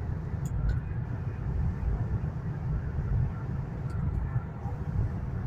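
Steady low rumble and hiss of a high-speed train carriage's interior, the train cruising at about 300 km/h. A couple of faint clicks about half a second in.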